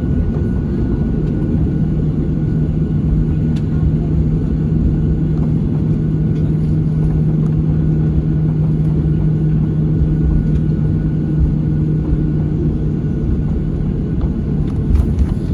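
Boeing 737-700's CFM56 jet engines heard inside the cabin: a steady, loud low rumble with a steady hum running through it.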